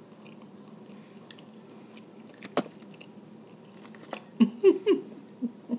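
A person chewing and biting crab meat close to the microphone, with a sharp click about two and a half seconds in and a few short, louder mouth sounds near the end.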